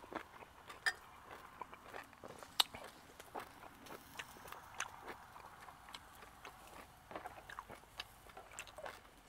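A person chewing a mouthful of food close to the microphone: irregular wet clicks and smacks of the mouth.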